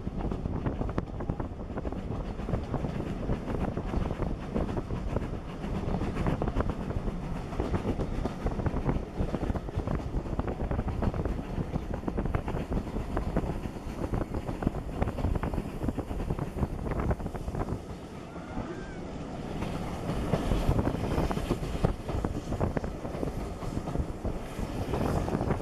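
Wind buffeting a microphone held out of the window of a moving steam-hauled train, over the rumble of the carriages running along the track. The noise dips briefly about eighteen seconds in.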